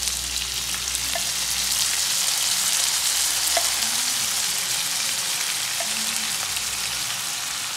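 Marinated chicken sizzling steadily in hot oil and butter in a pan while whisked curd is spooned onto it, with a few light clicks.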